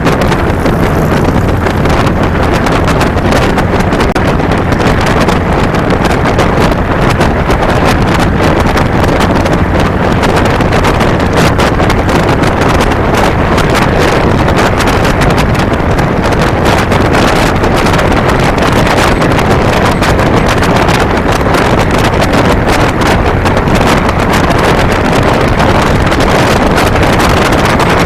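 Harley-Davidson Fat Boy's V-twin engine running at riding speed, under loud, steady wind buffeting on a handlebar-mounted microphone.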